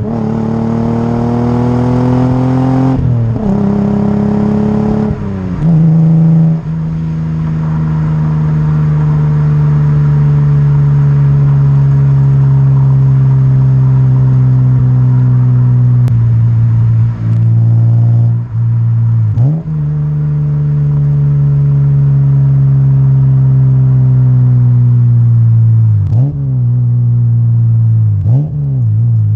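Lexus SC300's 2JZ-GE inline-six through a Blitz Nur Spec-R aftermarket exhaust while driving: a pull through the gears with shifts in the first few seconds, then a long steady cruise with the pitch slowly falling. Later, several quick rev blips break the drone, typical of downshifts.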